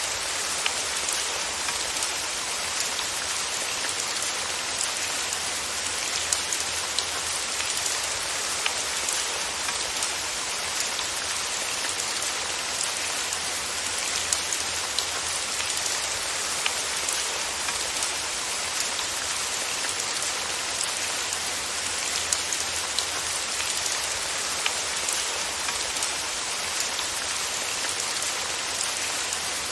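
Steady rain falling, an even hiss with frequent small sharp drop ticks, the sound of raindrops striking a surface.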